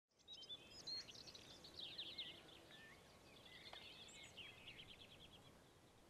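Faint birdsong over a quiet outdoor background: chirps, rapid trills and short whistles, busiest in the first few seconds and thinning out toward the end.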